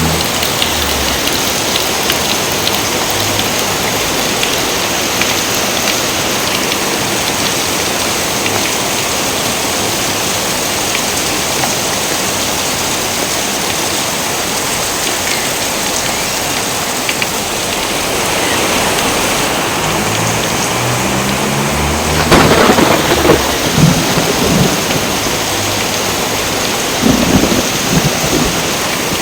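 Steady heavy rain with thunder. Thunder cracks and rumbles louder about two-thirds of the way in, and again near the end.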